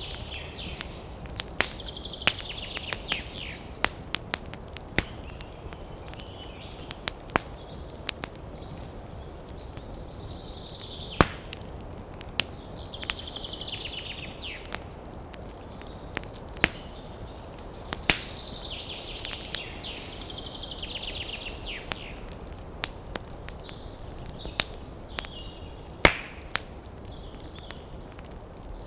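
Campfire crackling, with irregular sharp pops and snaps over a steady rushing background. Bouts of rapid, chattering bird calls sound several times, each a second or two long.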